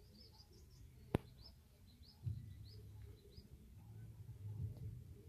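A small bird chirping over and over in short, high, quick notes. A single sharp click about a second in, over a low uneven rumble.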